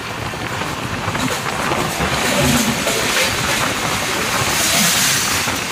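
Wind rush and wheel noise of a moving train heard from an open coach door, as an oncoming train's locomotive and coaches pass close alongside on the next track. The rushing grows louder from about two seconds in and is loudest near the end.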